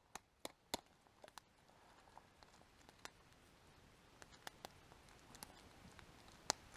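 Faint, irregular crackles and pops from a small wood campfire, with the loudest pop near the end.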